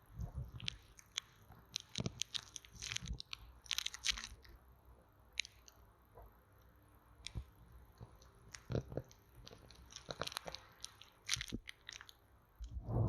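A bamboo stick tapped, pressed and rubbed against a close microphone. It makes irregular crisp clicks and short crunchy scrapes that come in clusters and get louder near the end.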